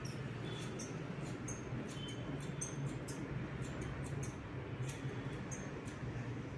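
Hairdressing scissors snipping through hair in quick, irregular cuts, about three snips a second, each a sharp metallic click, over a steady low hum.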